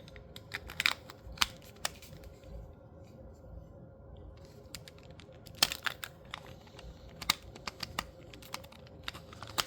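Scattered small plastic clicks and taps from a toy sonic screwdriver being handled with its bottom unscrewed and its hidden colour-change switch pressed, with a brief flurry of clicks about halfway through.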